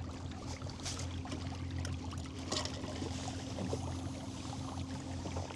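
Water trickling and splashing against a moving kayak's hull, with small scattered splashes and a steady low hum underneath.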